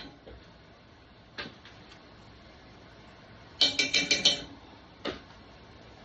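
A metal utensil clinking rapidly against cookware: a quick run of about seven ringing clinks a little past halfway, with a single knock shortly before and another shortly after.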